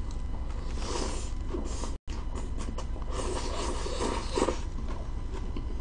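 Close chewing of a mouthful of leafy sprout salad, soft wet crunching in a few spells, over a steady low hum. The sound cuts out for an instant about two seconds in.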